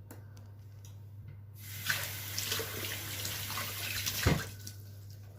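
Kitchen tap running for about three seconds, starting a couple of seconds in, with a sharp knock just before the water stops. A steady low hum runs underneath.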